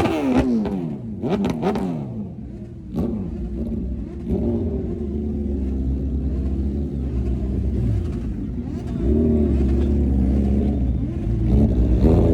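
Motorcycle engine revving, its pitch rising and falling several times, then settling into a steadier low running that grows louder near the end.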